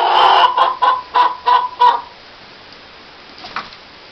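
Hen clucking loudly in a quick run of about six short calls over two seconds, then a faint call or two later on: a hen the keeper takes to be about to lay an egg.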